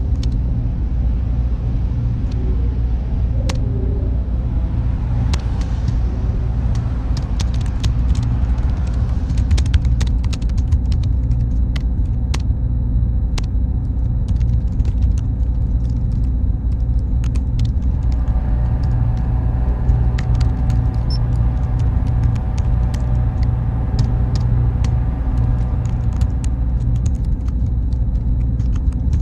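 Steady low rumbling machine-room noise of a computer server room, with a thin steady high whine and scattered small clicks. A faint hum of several tones joins about two-thirds of the way through.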